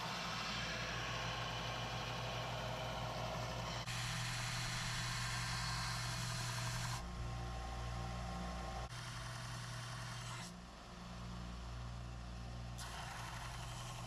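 Electric sanding machine running steadily with a motor hum and a grinding hiss of abrasive on the steel knife blank as it is shaped. The sound jumps in level and tone abruptly several times.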